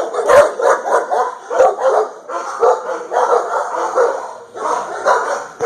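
Shelter dogs barking in their kennels, short barks following one another with hardly a pause.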